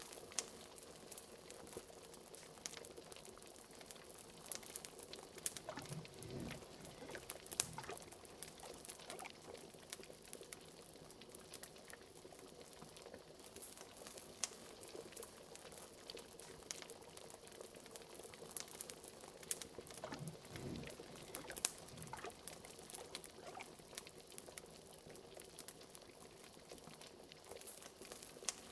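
Liquid bubbling steadily in a cauldron, with a few larger low bubbles glugging up about six seconds in and again around twenty seconds in, over a dense scatter of small crackling pops.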